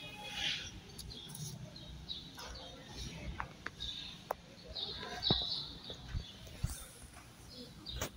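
Small birds chirping in short, scattered calls, with a few faint clicks and knocks in the middle.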